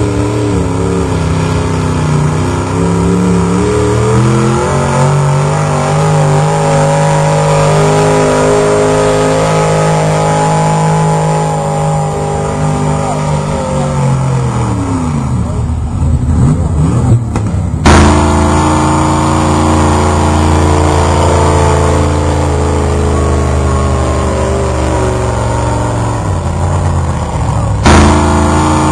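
A pulling truck's engine running at full power under load, its pitch wavering and stepping, then winding down about halfway through. After an abrupt break the engine runs steady again and drops off near the end.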